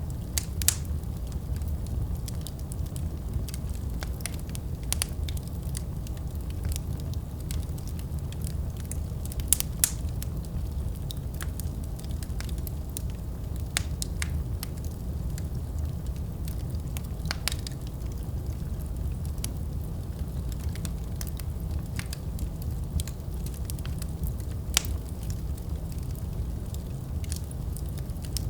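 Wood fire in a fireplace crackling, with a steady low rumble and scattered sharp pops, a few louder ones standing out.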